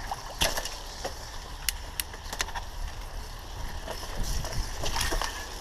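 Mountain bike being ridden on a trail: a steady low rumble of tyres and wind on the microphone, with a handful of sharp clicks and rattles from the bike.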